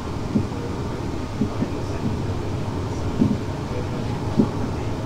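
Interior running noise of a Class 360 electric multiple unit at speed: a steady low rumble of wheels on rail, with a few short dull knocks at irregular intervals.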